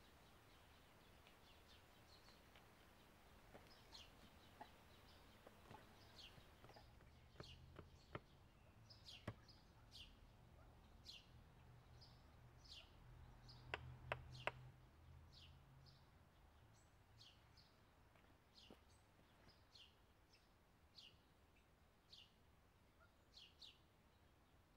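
Faint woodland sound with a small bird calling over and over, a short falling chirp about once a second. A few sharp knocks of a knife working wood come through it, the loudest three in quick succession about halfway through.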